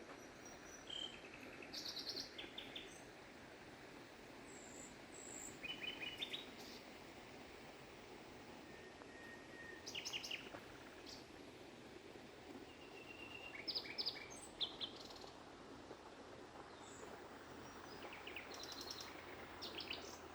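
Small birds chirping and trilling in short bursts every few seconds over the steady rush of a flowing stream.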